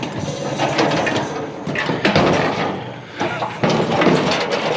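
Scraping and clunking of a heavy treadmill being slid and shifted by hand, with no wheels to roll on.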